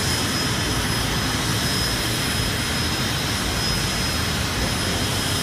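Helicopter in flight: a steady, unbroken engine and rotor noise with a thin high whine running through it.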